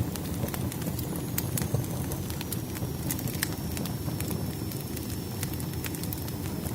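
Firewood burning in a fire, crackling and popping with irregular sharp snaps over a steady low rumble of flame, with a faint high whistle.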